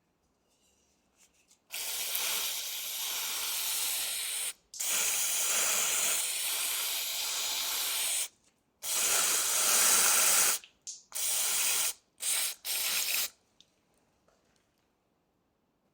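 Pressurised spray hissing in six bursts: two long ones of about three seconds each, then shorter ones, the last well under a second.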